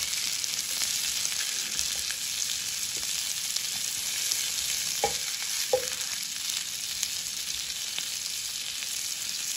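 Mutton kebabs sizzling steadily in desi ghee in a frying pan, with two light knocks of the spatula against the pan about five seconds in.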